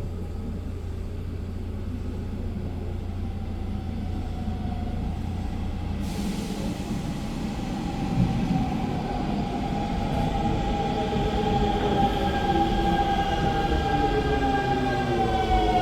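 Steady low mechanical rumble; about six seconds in, an electric motor whine with several pitches joins it, grows louder and glides downward near the end.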